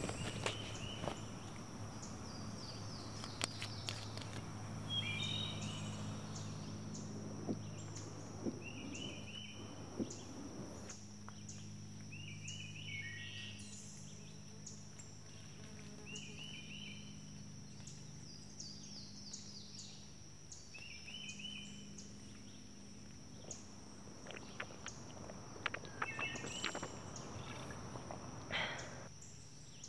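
A bird singing short chirping phrases that repeat every second or two, over a low steady hum and a thin steady high tone, with a few light clicks near the end.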